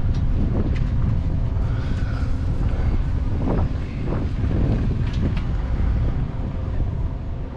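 Wind buffeting the microphone of a camera carried on a moving bicycle, a constant low rumble.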